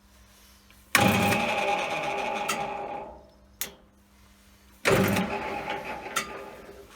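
Small benchtop metal lathe (CJM360) running in two short bursts of about two seconds each. Each burst starts suddenly with a steady whine and then fades away, with a click between them.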